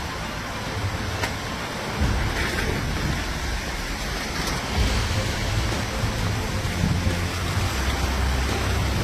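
Heavy rain pouring, an even rushing hiss over a low rumble that grows louder about two seconds in and again around five seconds.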